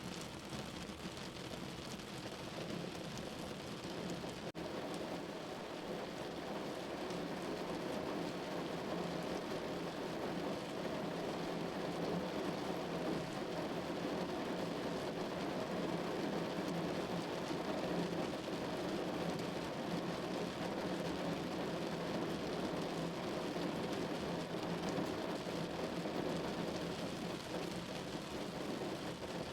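Rain falling steadily, a dense even hiss, a little louder from about four and a half seconds in.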